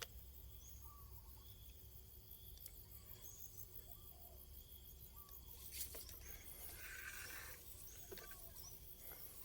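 Faint outdoor ambience: scattered short chirps from small animals over a low steady hum, with a single faint click about six seconds in.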